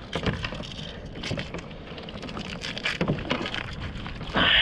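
Irregular knocks and clatter of gear and hands on a fishing kayak on the water, with a louder burst of noise near the end.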